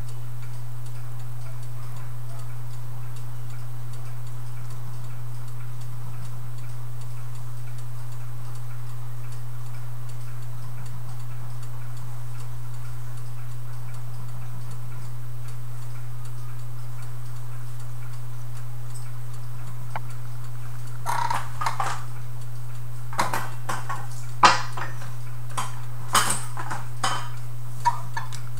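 Mechanical clock ticking steadily under a constant low hum. In the last several seconds come a run of sharp metallic clicks and knocks, one much louder than the rest.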